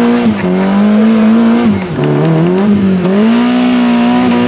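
A Suzuki 4x4's engine revving hard and continuously. Its pitch drops slightly just after the start, dips twice in the middle and climbs back each time, then holds steady near the end.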